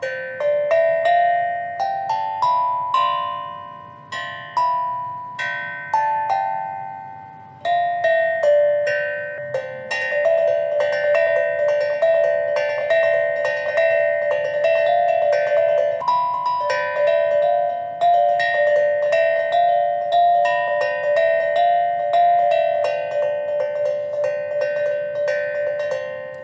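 Mini eight-note steel tongue drum in C struck with mallets, playing a melody of ringing notes. Each strike starts sharply and rings on. The notes are spaced at first, then come in a faster run from about eight seconds in, and the last notes ring out near the end.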